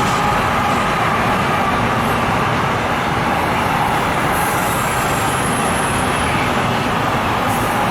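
A train passing close by at speed: a steady, loud rolling noise of wheels on rail, with a faint thin high whine for a couple of seconds in the middle.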